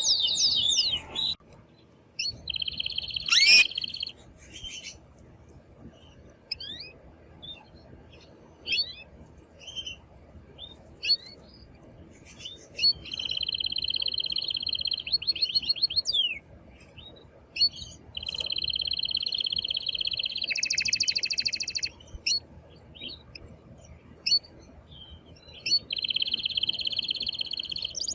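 Male domestic canary singing: several long, fast trills of about two seconds each, broken by scattered short chirps and whistled notes.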